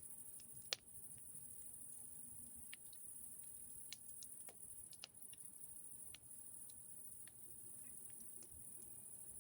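Campfire crackling: sparse, irregular sharp pops and snaps of burning wood, the sharpest about a second in, over a steady high hiss.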